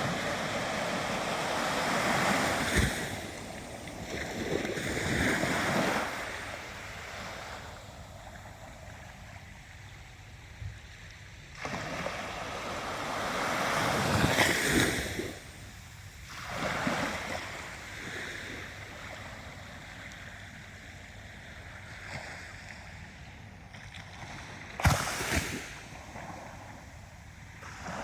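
Ocean waves breaking and washing up on the shore, swelling in surges several seconds apart over a steady wash, with a short sharp crash near the end.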